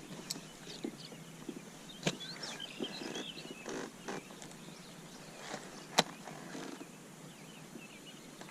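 Scattered small clicks and knocks from fishing gear being handled in a kayak, with one sharp knock about six seconds in, over faint bird chirps.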